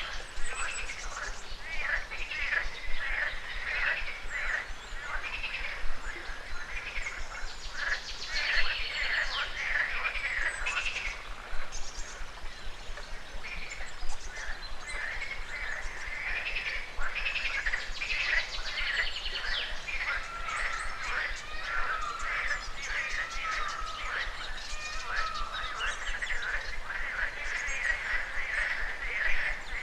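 A dense chorus of birds and frogs calling together: many short chirps and croaks overlapping without a break.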